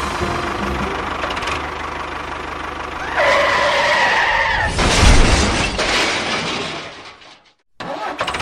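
A motor running steadily with a low rumble. About three seconds in, a loud pitched, horn-like tone sounds for about a second and a half, followed by a louder noisy surge. Near the end the sound cuts out for a moment, then returns.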